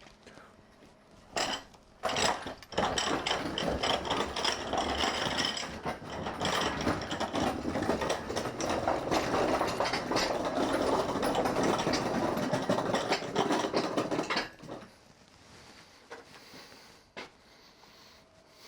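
A tool working fasteners loose: two short bursts, then a fast, dense run of mechanical clicking and whirring for about twelve seconds that stops abruptly.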